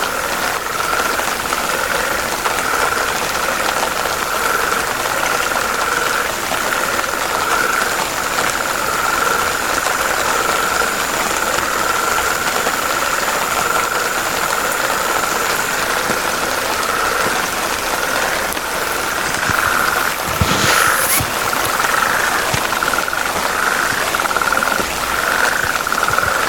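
A dense frog chorus with many calls massed together into a continuous pulsing drone at one pitch band. A thin, steady high tone runs beneath it and stops about two-thirds of the way through. A brief sharp sound comes near the end.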